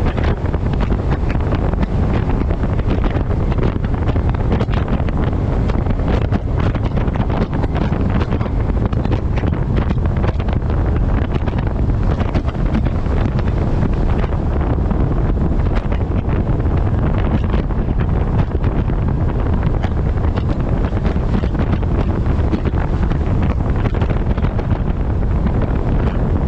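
Heavy, steady wind buffeting the microphone of a camera mounted on the front of a moving truck, a constant low rumble and rush with no let-up.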